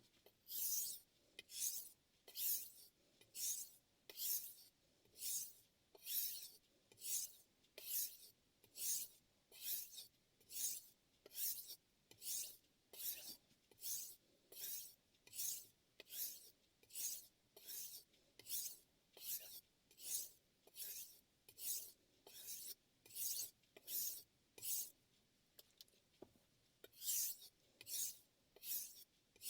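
Damascus chef knife blade stroked back and forth on a Shapton M15 #1000 ceramic whetstone, a regular rasping hiss at about one and a half strokes a second, with a brief pause near the end.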